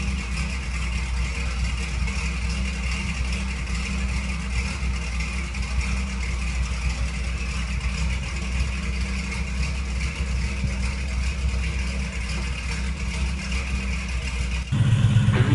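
A 1985 Dodge Ram pickup's engine running steadily, with guitar music coming in near the end.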